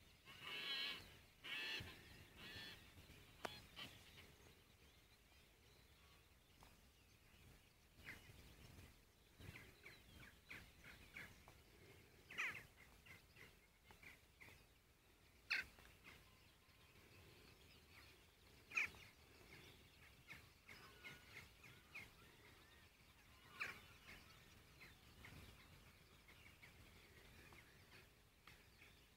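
Birds calling from a cliff face: scattered short, high calls, a quick run of them in the first few seconds, then single sharp calls every few seconds over a faint outdoor background.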